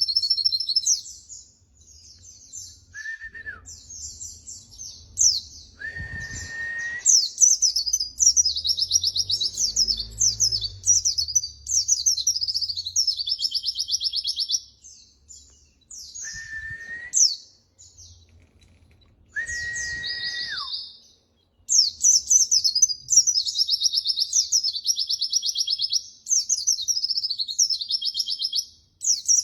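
Pleci (white-eye) singing: long runs of rapid, high-pitched twittering with short pauses between phrases. A few steady, lower whistled notes come in between, the longest near the end of the middle stretch sliding down as it ends.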